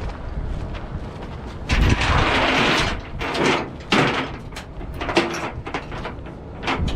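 Steel tie-down chain rattling and clinking as it is pulled through and hooked. A longer rasping drag comes about two seconds in, with shorter drags and a run of sharp clinks after it.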